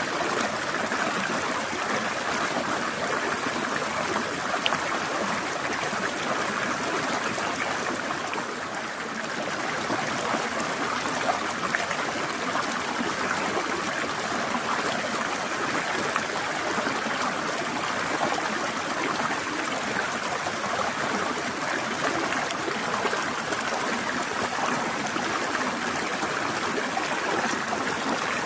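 Small forest stream flowing over rocks, a steady trickling and gurgling of water that dips briefly about eight seconds in.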